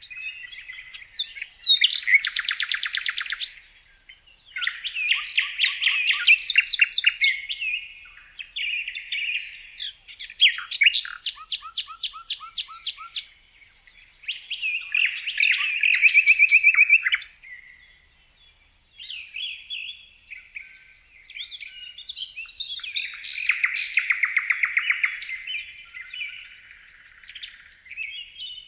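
Songbirds singing: a series of bright chirping phrases and fast rapid-note trills, separated by short pauses, with a brief lull about two-thirds of the way through.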